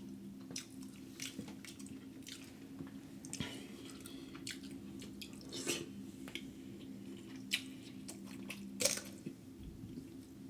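Close-miked mouth sounds of a man eating seafood: irregular wet smacks and clicks of chewing, over a faint steady hum.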